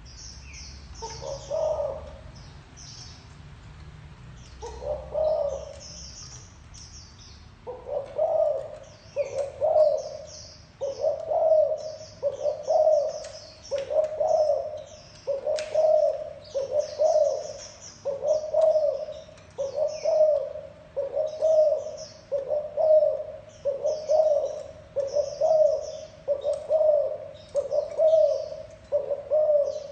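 Spotted dove cooing: two spaced coos, then a steady run of coos about every second and a half. Small birds chirp high above it.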